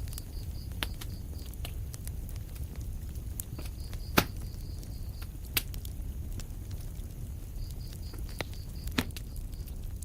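Wood fire burning in a fireplace: a low steady rumble with scattered crackles and sharp pops, the loudest about four seconds in. A faint high, rapid chirping comes and goes three times.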